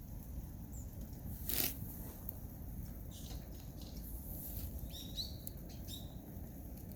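A Solo Stove wood fire burning with a low steady rumble. One sharp crackle comes about a second and a half in, with smaller crackles after it. A few short high bird chirps come near the end.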